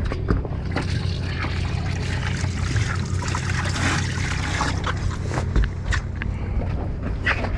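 A boat's engine running steadily with a low hum. A rush of hissing noise swells and fades around the middle, with a few scattered knocks.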